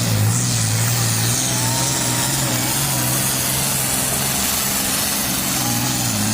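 Engine of a truck-and-tractor-pull vehicle running loud at steady revs.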